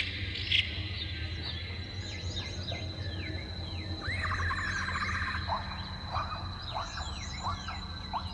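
Several small birds chirping and calling: repeated quick falling chirps, a rapid trill about four seconds in, and short lower notes after it. A steady high-pitched tone and a low steady rumble run underneath.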